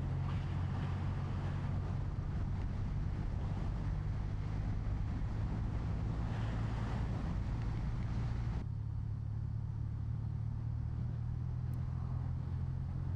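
BMW R12 NineT's boxer twin engine running steadily at cruise, with wind and road noise over it that drops away suddenly about two-thirds of the way through.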